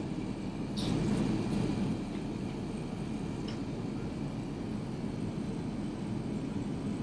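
Steady low rumble of an Airbus A380's cabin noise in cruising flight, with a few faint clicks about a second in and again midway.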